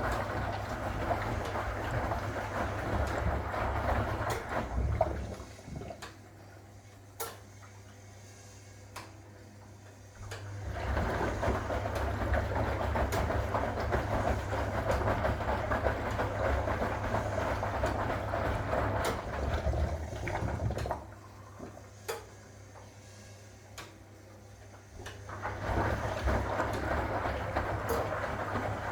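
1961 AEG Lavamat Noris washing machine tumbling its load: the drum motor hums and the wash swishes for several seconds at a time, with two pauses of about five seconds marked by a few faint clicks. This stop-start rhythm is the machine's wash action, with the drum changing direction in the pauses.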